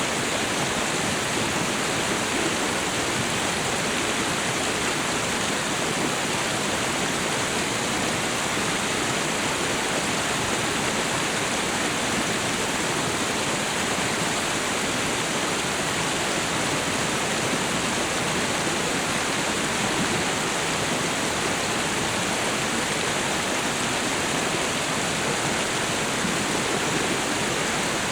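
Tropical waterfall and river: water falling and rushing in a steady, even wash of noise.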